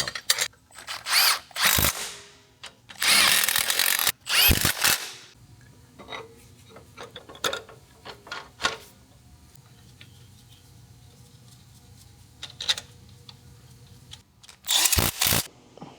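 Power tool spinning in three short bursts, the second the longest, driving in bolts while the underside of an engine bay is buttoned up, with light clicks of tools and parts between the bursts.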